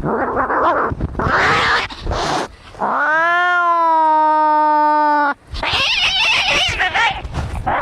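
Cats fighting: harsh, noisy yowls and hisses, broken by one long drawn-out yowl that rises in pitch and then holds steady from about three seconds in to just past five, followed by more harsh yowling.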